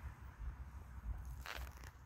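One short crunch of a footstep on dry, stony ground about a second and a half in, over a low rumble on the microphone.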